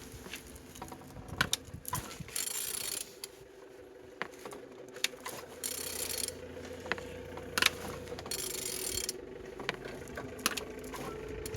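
Removed engine being turned over by hand: rasping, ratchet-like strokes about every three seconds, with scattered metallic clicks in between. It turns freely, a sign that the engine is not seized.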